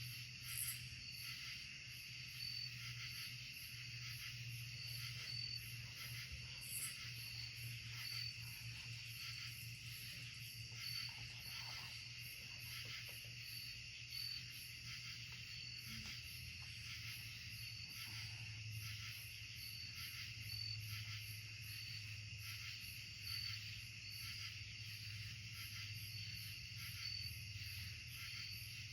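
Night insect chorus in the woods: a steady high chirring, with a short high chirp repeating about once a second, over a low steady hum.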